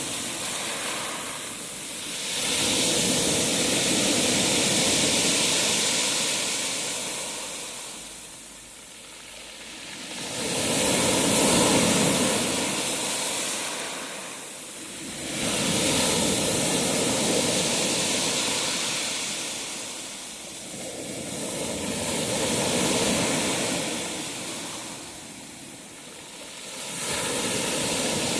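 Sea waves breaking and washing up a shore: a rushing surge that swells and falls back roughly every five to six seconds.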